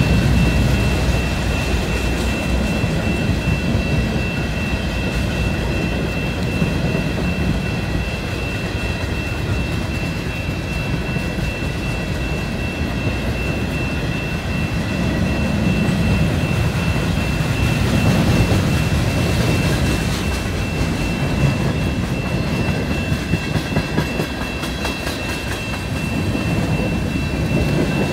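Freight cars of a CN train, covered hoppers and tank cars, rolling past over a road crossing: a steady wheel rumble and clatter on the rails, with a sharp knock about three-quarters of the way through. A steady high tone sounds above it.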